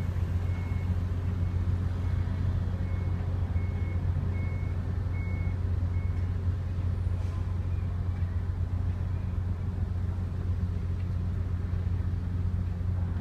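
Steady low drone of a ferry's diesel engines running at a constant speed, with a faint short high beep repeating over the first few seconds.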